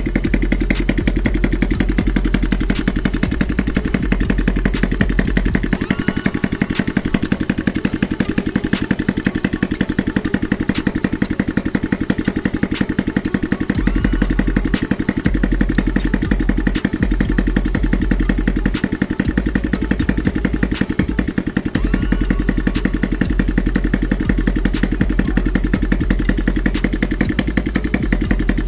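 Motorcycle engine idling with no exhaust pipe or muffler fitted: a loud, steady, rapid run of raw exhaust pops straight from the open port.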